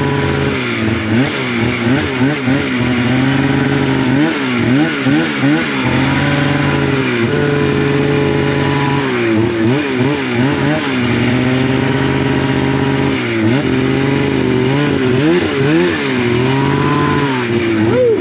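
Polaris snowmobile engine revved in short, repeated throttle blips, its pitch rising and falling every second or so while it is worked through deep snow. A steady lower drone runs underneath.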